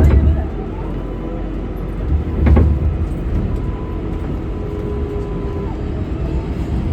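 Inside a moving R188 subway car: a steady rumble of wheels on rail, with a faint steady hum. There are two heavy knocks, one at the very start and one about two and a half seconds in, as the wheels pass over rail joints or track work.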